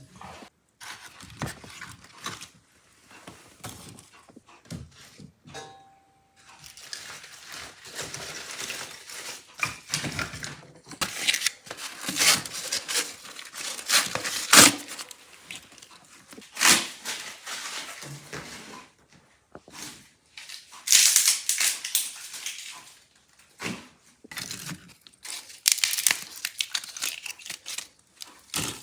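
Irregular rustling and crinkling handling noises in a small room, coming in uneven bursts, several of them loud and sharp.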